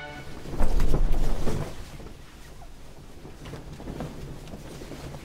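Wind and sea noise on the deck of a sailing boat under way, with a louder rushing stretch about half a second in that lasts about a second, then a steady quieter rush with a few faint clicks.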